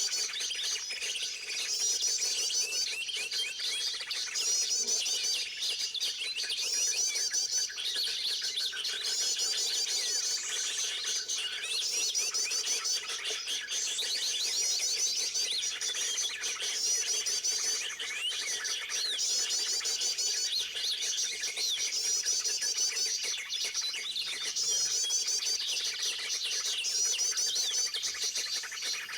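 Small birds twittering: high, rapid chirping phrases repeated every second or two, with a faint steady hum underneath.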